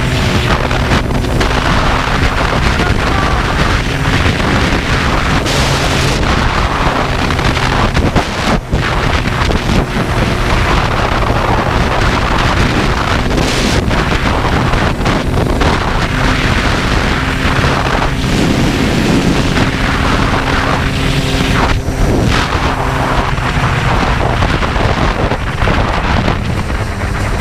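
Yamaha Blaster 200's two-stroke single-cylinder engine running steadily under way, heavily buffeted by wind on the microphone, with a brief drop about nine seconds in.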